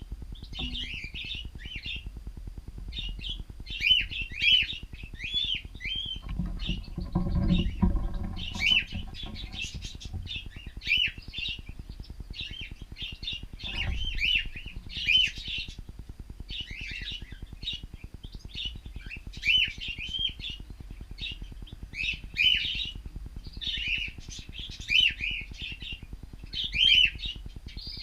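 Cockatiels chirping, with short repeated calls coming in bursts and overlapping throughout.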